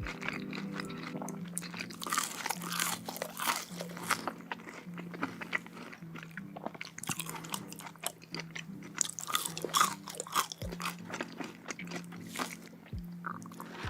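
Close-miked mukbang eating: repeated crisp crunching bites and chewing of crunchy food, over quiet background music with low held notes.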